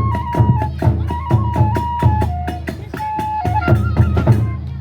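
Kagura hayashi ensemble playing: a transverse bamboo flute carries a stepping melody over quick, steady drumbeats.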